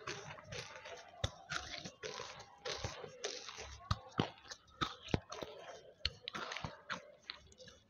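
Banslochan (tabasheer) crystals being chewed right at a headset microphone: a steady run of sharp, irregular crunches and crackles, with wet mouth sounds between them.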